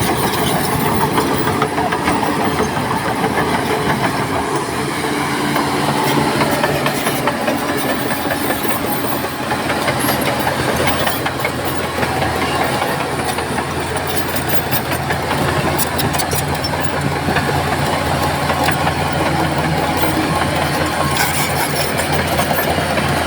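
Crawler bulldozer's diesel engine running steadily, with the clank of its steel tracks now and then.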